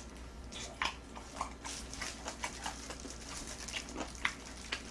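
Close-miked mouth sounds of someone eating fried chicken: soft chewing and wet lip smacks, heard as scattered small clicks with a sharper one at the start.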